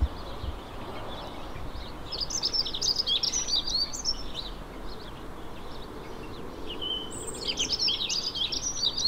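Small songbirds chirping and twittering in two quick clusters of high notes, about two seconds in and again near the end, over a steady background hiss.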